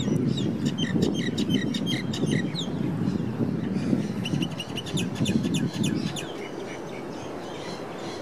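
A small bird chirping in two quick runs of short, high notes, each lasting a couple of seconds, with a steady low rumble of outdoor background noise underneath.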